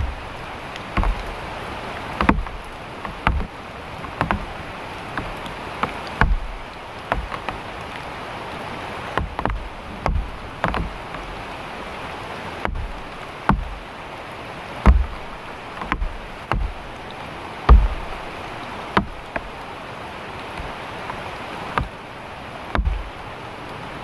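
Heavy rain falling steadily, with irregular dull knocks and thuds about once or twice a second.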